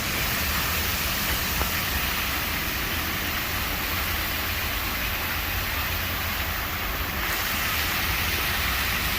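Heavy storm rain pouring down in a steady hiss, over a constant low rumble of wind.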